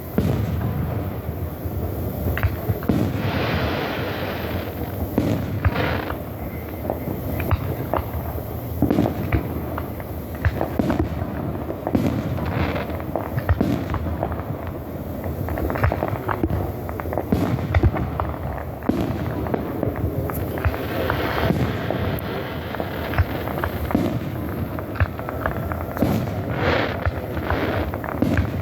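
Aerial fireworks display: shells bursting in quick, overlapping succession, a steady string of booms and pops over a continuous low rumble.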